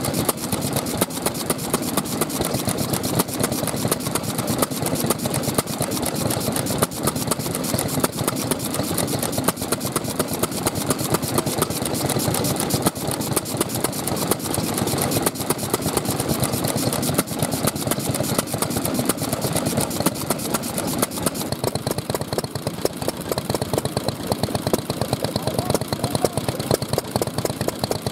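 Old Japanese petroleum (kerosene) stationary engines, hatsudōki, running steadily with a continuous rapid chugging of firing strokes.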